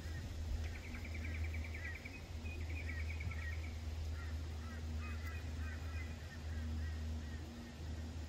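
Birds chirping, with a fast trill about a second in and scattered repeated chirps after it, over a steady low rumble.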